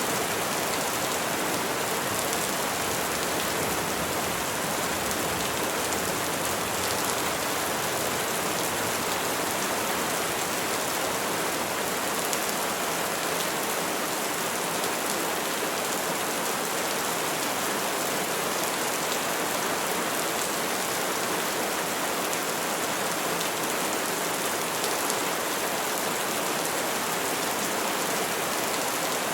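Steady rain falling on trees: an even, dense hiss of many drops that holds unchanged throughout.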